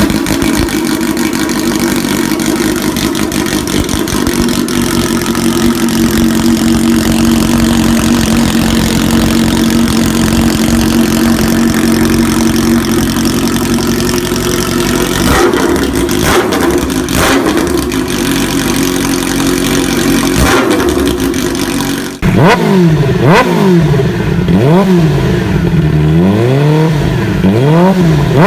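Kawasaki Ninja H2's supercharged inline-four through an Austin Racing exhaust, held at steady high revs with a few quick changes around the middle. After a cut about 22 seconds in, the same bike on an SC Project exhaust is revved in repeated quick blips, its pitch rising and falling.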